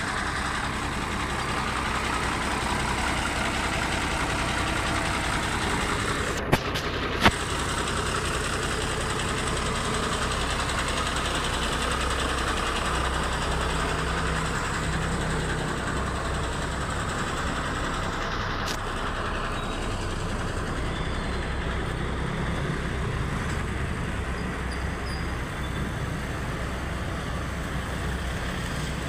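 Diesel engine of a 2011 Tata LP truck running steadily at idle, with two short sharp clicks about six and seven seconds in.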